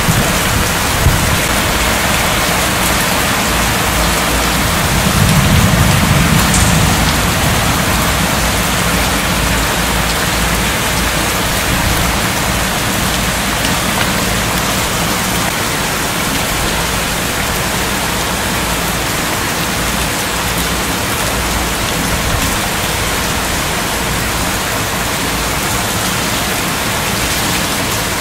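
Heavy rain pouring down steadily during a thunderstorm, with a low rumble swelling and fading about five seconds in.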